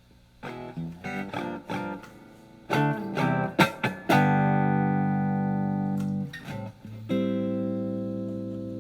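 Electric guitar, a Fender Telecaster, played through a Marshall MG15FX amplifier on its clean channel: a run of short picked notes, then a strummed chord left to ring, a few more notes, and a second chord that rings and slowly fades.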